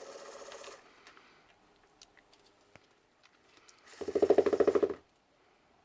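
Motorised smart-ball cat toy buzzing and rattling: a soft rapid rattle at the start, then a much louder buzzing rattle for about a second near the end.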